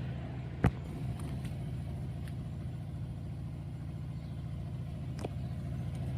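LG Inverter Direct Drive washing machine running steadily near the end of its rinse and spin cycle, a low hum. There is a sharp click under a second in and a fainter one about five seconds in.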